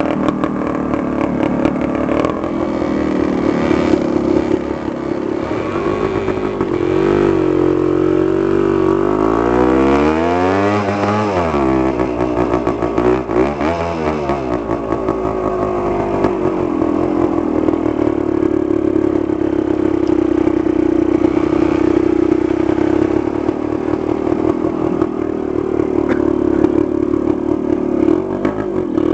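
Dirt bike engine running, its pitch rising and falling through a few revs partway through, then holding steady.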